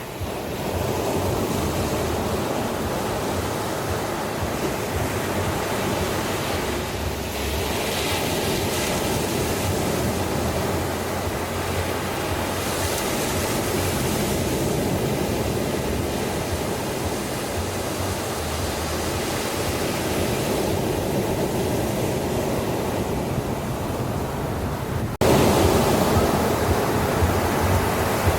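Ocean surf washing on a beach, a steady rush of waves. About 25 seconds in it cuts abruptly to a louder stretch of surf.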